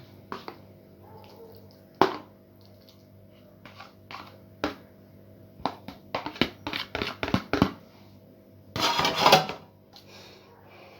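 Sharp clicks and knocks of dishes, lids and utensils being handled, with a quick run of clattering about two-thirds of the way through, then a second of louder rustling or scraping near the end.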